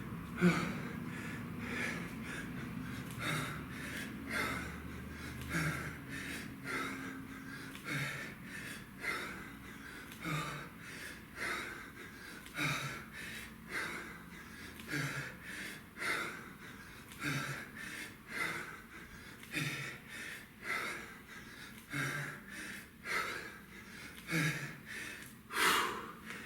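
A man breathing hard in quick, even pulses, about one forceful breath a second, while working through a timed kettlebell exercise interval.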